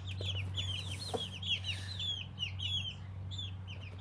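Birds peeping rapidly and continuously: short high calls, each sliding down in pitch, several a second, over a steady low hum.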